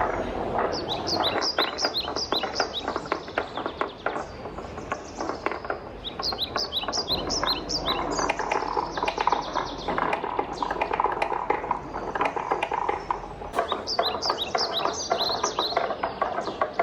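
Wooden balls rolling and clacking down a wooden marble run: a dense, continuous rattle of quick knocks and clicks.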